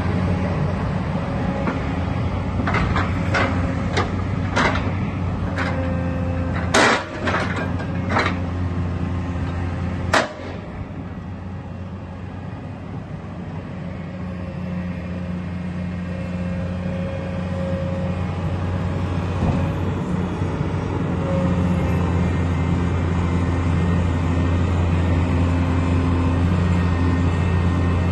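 Komatsu PC210LC tracked excavator's diesel engine running steadily, with a series of sharp knocks between about three and ten seconds in. After a dip, the engine note builds up to a louder steady level over the second half.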